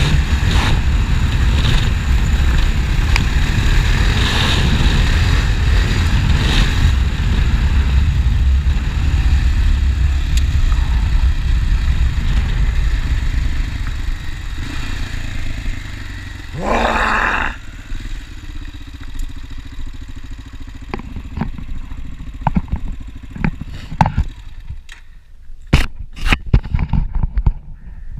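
Honda Dominator NX650's single-cylinder engine running with a loud, steady low rumble, easing off and falling quieter after about thirteen seconds. A short burst of noise comes a little past the middle, and the last several seconds hold scattered sharp clicks and knocks.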